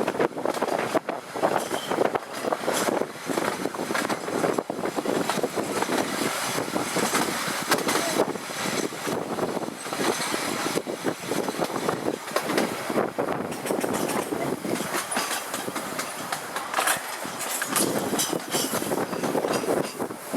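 Electric tram running along its narrow-gauge track, heard from aboard: a steady running noise of wheels on rail, with frequent clicks, knocks and rattles.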